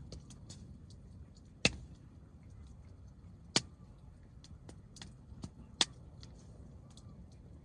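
Hardwood campfire crackling: scattered small snaps and three loud, sharp pops over a low, steady rumble.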